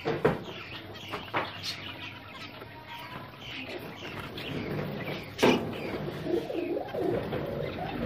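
Aviary birds calling and chirping, with a few sharp clicks; the loudest click comes about five and a half seconds in.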